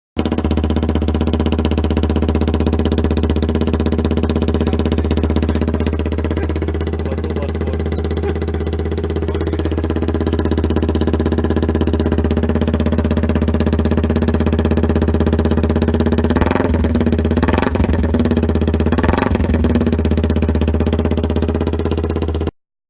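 Hyosung Karion RT125's single-cylinder four-stroke engine idling steadily, with three short louder surges in the last third.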